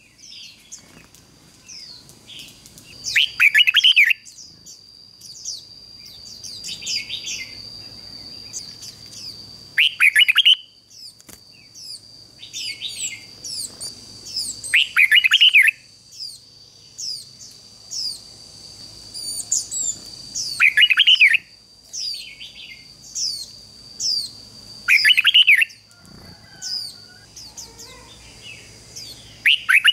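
Red-whiskered bulbul singing short, loud, warbled song phrases about every five to six seconds, with softer chirps in between, over a steady high-pitched tone.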